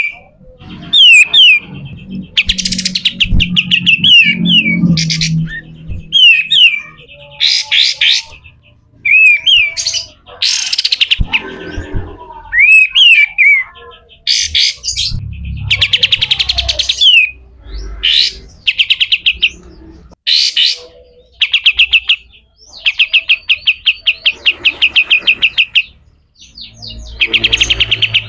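Kapas tembak bulbul singing in a harsh, rasping style: loud bursts of very rapid chattering notes repeated many times a second, broken by short pauses.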